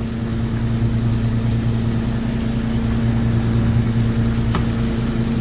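A fishing boat's engine running steadily with an even, low drone. A faint click about four and a half seconds in.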